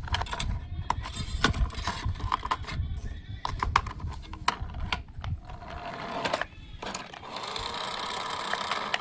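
Irregular clattering and knocking of hard parts, then from about seven seconds a steady whir of a small motor.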